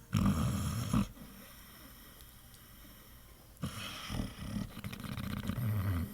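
Pit bull snoring in its sleep: a loud snore in the first second, then after a pause of about two and a half seconds a longer, quieter, rough snore lasting about two seconds.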